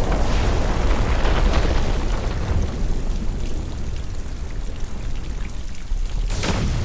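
Sound-designed meteor-shower ambience: a continuous deep rumble under a rain-like hiss, easing off a little in the middle, with a sharp impact crack near the end.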